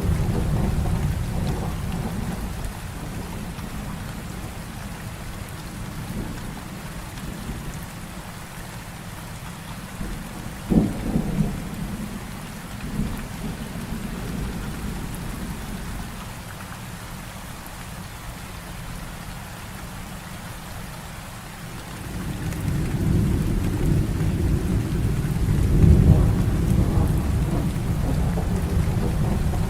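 Thunderstorm: heavy rain falls steadily throughout. A roll of thunder fades out over the first few seconds, and a short, sharp thunderclap comes about eleven seconds in. Near the end, a long low rumble of thunder builds and is loudest a few seconds before the close.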